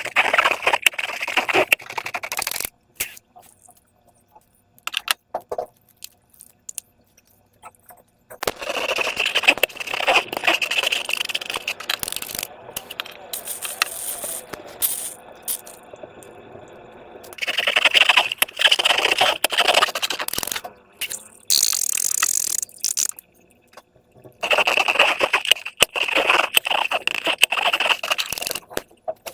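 Slime being squeezed and stretched by hand, making sticky crackling and squishing in four bursts of a few seconds each, with scattered small clicks and scrapes between them.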